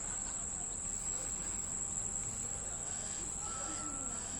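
Crickets chirring, a steady high-pitched trill that runs on without a break.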